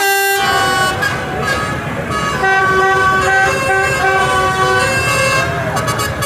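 Vehicle horns sounding in a string of held notes over the rumble of passing tractor and truck engines.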